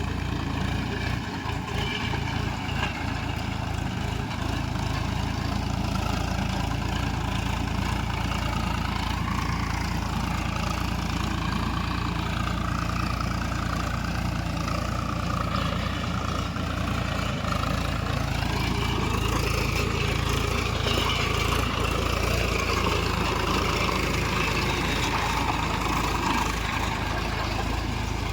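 A 39 HP tractor's diesel engine running steadily, with a deep rumble. Its tone shifts higher about eighteen seconds in.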